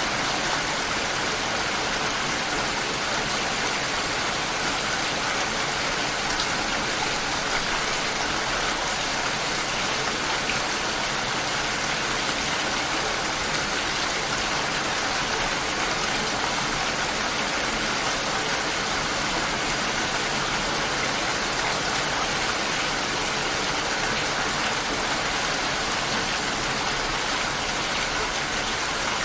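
Steady light rain falling, an even unbroken hiss with no thunder.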